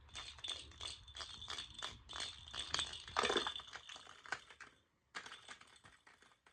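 A rattle shaken in quick, irregular bursts for about five seconds, pausing briefly, then shaken again for about a second.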